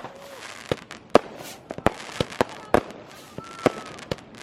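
New Year's fireworks and firecrackers going off around the area: about a dozen sharp bangs and cracks at irregular intervals, some near and some distant.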